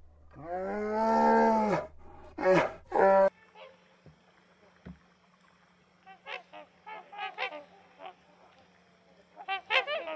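Black swans calling: short, high, honking bugle notes in a loose run that grows quicker and louder near the end. Before them comes a loud drawn-out call, then two short ones.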